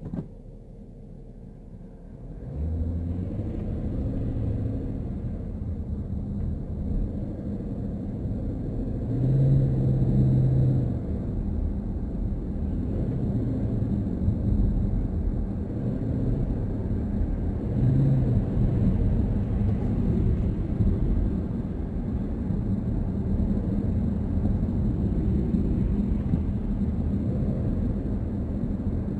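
Car cabin noise while driving: a steady low rumble of tyres and engine. It is quiet at first and becomes much louder about two and a half seconds in, with a couple of louder swells later on.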